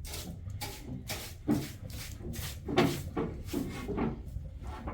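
Irregular knocks and rubbing of objects being handled, about two a second, over a low steady rumble.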